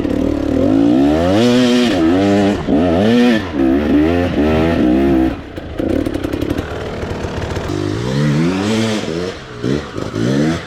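Dirt bike engine revving up and down in quick repeated surges, settling to a lower, steadier note for a couple of seconds midway, then revving up and down again near the end.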